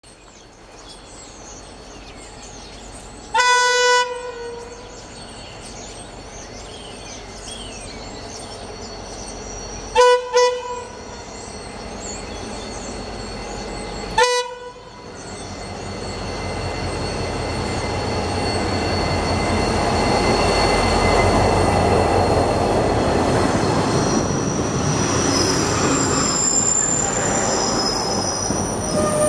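Irish Rail 071 class diesel locomotive sounding its horn: one blast about three seconds in, a double blast around ten seconds, and a short blast around fourteen seconds. Then the train's rumble grows louder as it arrives, and the spoil wagons roll past with their wheels squealing steadily on the curve near the end.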